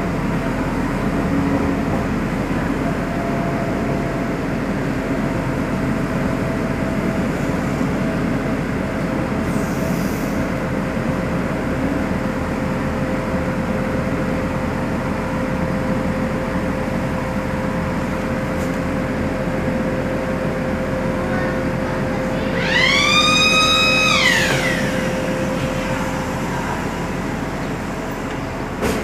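Steady running rumble of a moving passenger train. About three-quarters of the way through, a horn sounds once for about two seconds, its pitch rising and then falling.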